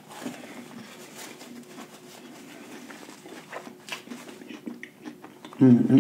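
A man chewing a bite of crispy fried lobster tail: soft, wet mouth sounds with a few small crunches. Near the end comes a loud, low 'mmm' from the eater.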